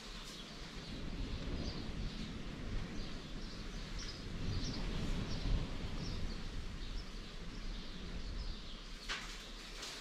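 Birds chirping outdoors: many short, repeated chirps over a steady low background noise that swells in the middle, with a brief soft click near the end.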